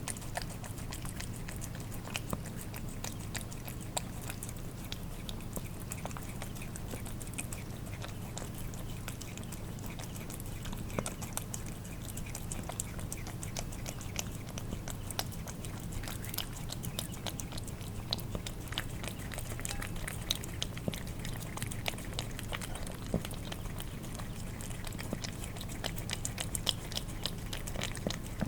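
Cats eating wet food: a dense, irregular run of wet smacking, licking and chewing clicks from tongues and jaws in the food, over a steady low hum.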